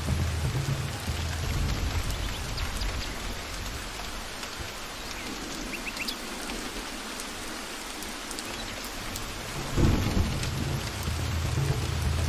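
Steady rain falling on forest foliage, with low thunder rumbling. The rumble dies away over the first few seconds, and a new clap breaks in sharply near the end and keeps rolling.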